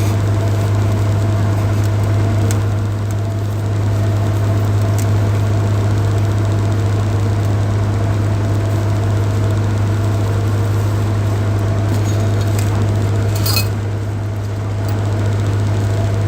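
Boat engine running with a steady low drone, and a brief light clink about three-quarters of the way through.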